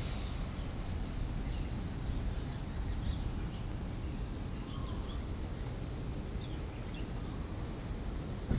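Small birds chirping in short, high calls several times over a steady low outdoor rumble, with a brief thump near the end.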